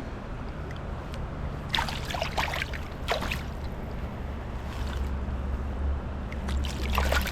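Creek water running steadily, with a few short splashes in the water, the loudest near the end.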